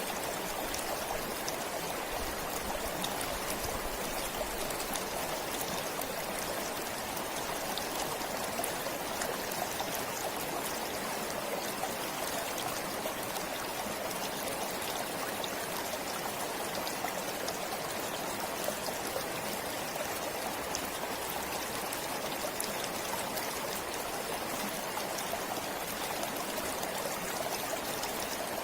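A forest stream running steadily, with a constant rush of water and fine splashing and trickling.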